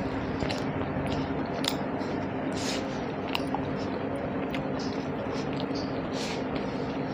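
A person chewing and eating, with short wet mouth clicks and smacks scattered through, while tearing roti and dipping it into soft, sticky raw mango launji. A steady low hum runs underneath.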